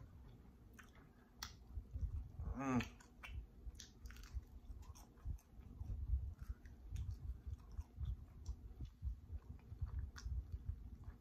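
Close-miked chewing of air-fried chicken, wet mouth sounds with many small clicks, uneven and continuous. There is a short hummed "mm" about three seconds in.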